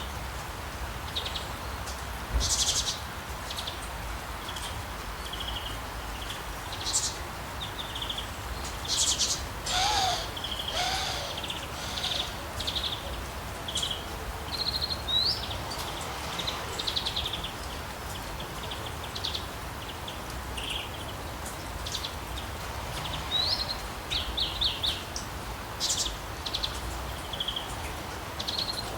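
Steady hiss of rain in a forest, with many birds chirping and calling over it: short high calls, some rising and some trilled, scattered throughout, and a couple of lower calls that bend in pitch around ten seconds in.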